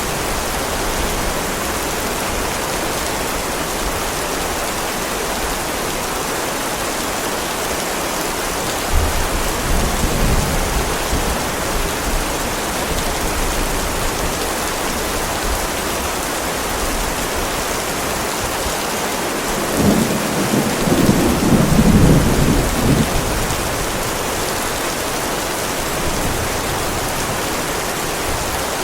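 Heavy rain falling steadily on a driveway, with low rolls of thunder: a short one about nine seconds in and a louder, longer one around twenty seconds in.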